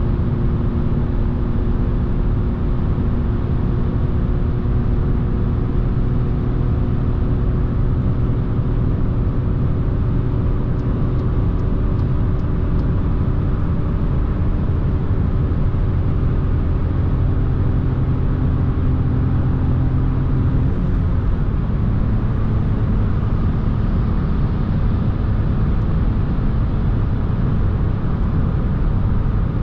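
In-cabin sound of a SEAT Ibiza's 1.0 MPI three-cylinder petrol engine pulling steadily at motorway speed, with tyre and wind noise, as the car gathers speed from about 120 to 135 km/h. The engine's hum changes pitch abruptly about two-thirds of the way through.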